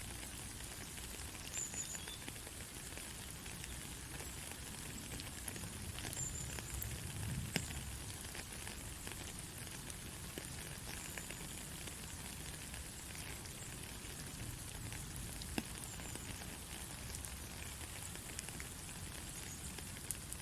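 Gentle rain falling steadily, an even hiss of drops with a few louder single drips, the clearest about halfway and again near three-quarters through.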